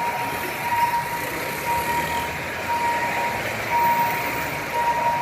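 Railway level-crossing warning signal beeping, one tone repeated about once a second, over steady road-traffic noise.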